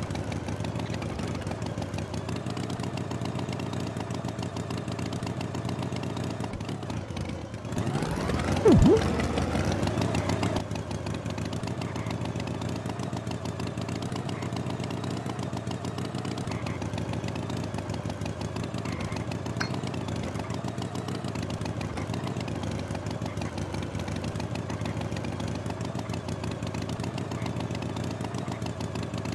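An engine running with a steady drone. About eight seconds in, a louder burst of a couple of seconds comes with a sharply falling pitch, then the steady running goes on.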